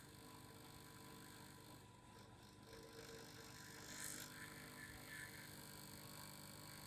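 Faint steady vibrating hum made of several constant tones, with a brief hiss about four seconds in.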